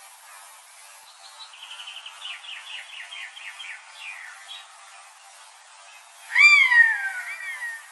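Birds calling: a fast trill of short high notes for about two seconds, then a loud, falling, mewing call near the end, followed by a quieter second one.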